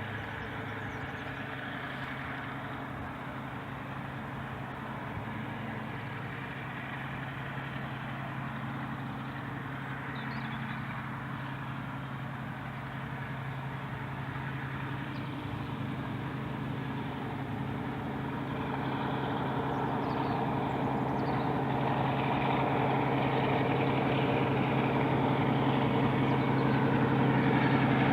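Heritage diesel locomotive engine running with a steady low drone, growing steadily louder through the second half.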